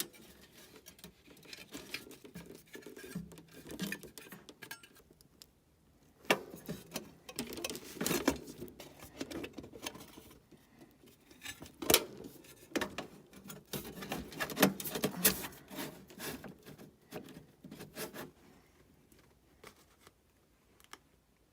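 Hand tools and wires being handled during electrical wiring work: irregular clicks, scrapes and light metallic clinks, busiest in the middle and thinning out near the end.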